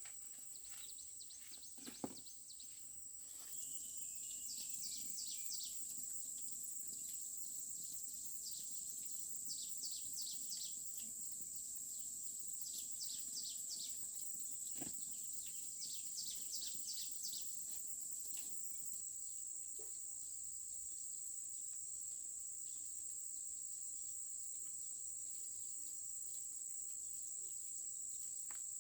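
Insects shrilling in one steady high tone that gets louder a few seconds in. Four bursts of quick, falling chirps come and go over it, and there are two sharp knocks.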